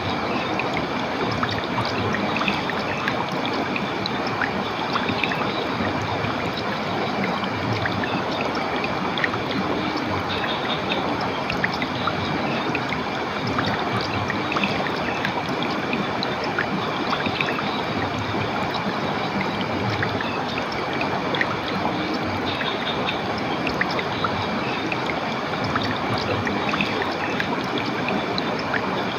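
Flowing stream water running steadily, with a faint high tone coming and going above it.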